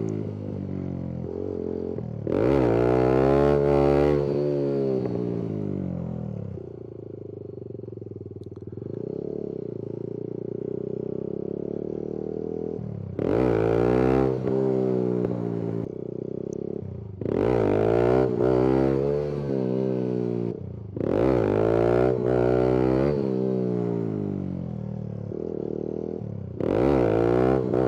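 Kawasaki Z125 Pro's small single-cylinder engine revving hard in several bursts, each rising in pitch and then falling away as the throttle is chopped, with a lower steady running note between them: wheelie attempts off the clutch.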